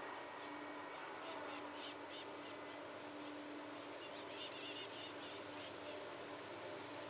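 Birds chirping over faint outdoor ambience: a short high call repeats about every second and a half, with a quick run of chirps a little past the middle. A low steady hum swells and fades underneath.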